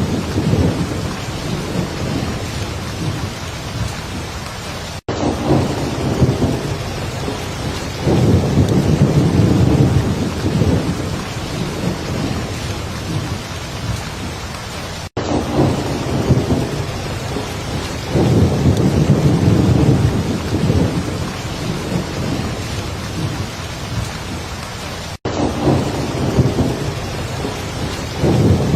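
Heavy rain falling steadily, with thunder rumbling in low swells every few seconds. Three times, about ten seconds apart, the sound cuts out for an instant.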